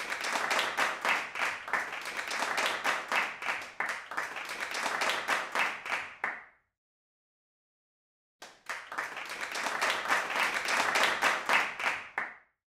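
Applause, many hands clapping, in two stretches: the first cuts off abruptly about six and a half seconds in, and the second starts about two seconds later and cuts off just as abruptly near the end.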